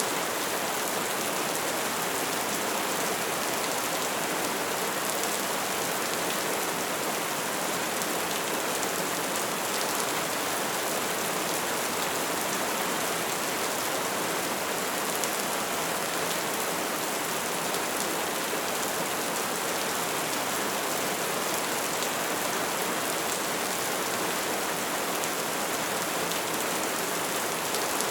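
An open fire burning with a dense, steady crackle.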